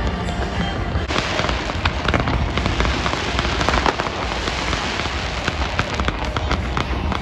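Fireworks going off: from about a second in, a dense run of rapid crackling pops.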